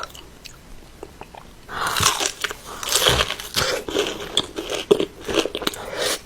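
Close-miked biting and chewing of crispy fried chicken wings, with a run of sharp, irregular crunches starting about two seconds in. The crust is crispy enough to hurt the eater's mouth.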